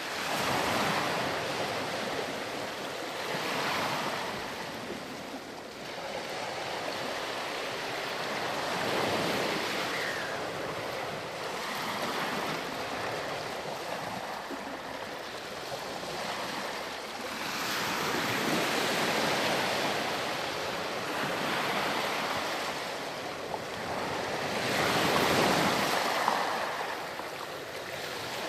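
Ocean surf washing onto a beach, waves breaking and drawing back in slow swells every few seconds, loudest near the end.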